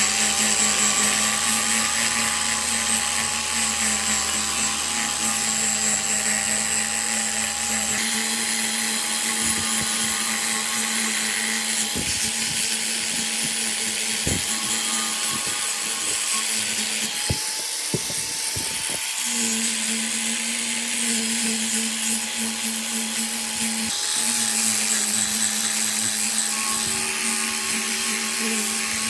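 Electric power tool running steadily: a motor whine that holds its pitch with slight wobbles, over a lower hum and a hiss. The sound shifts several times, most clearly about eight seconds in and again around nineteen seconds, with a few short clicks in between.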